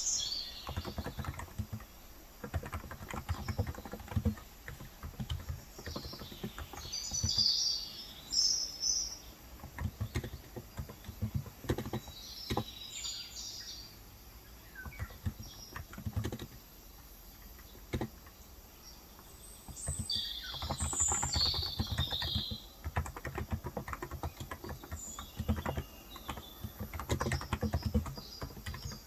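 Typing on a Cox Endeavour electrostatic capacitive keyboard with light 35 g keys, in bursts of quick key presses with a sparser pause about halfway through. Birds chirp several times over the typing.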